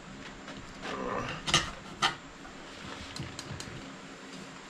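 Metal clanks and clinks of hand tools on a steel wheel rim while a tire bead is levered on: two sharp knocks about a second and a half and two seconds in, then a few lighter ticks.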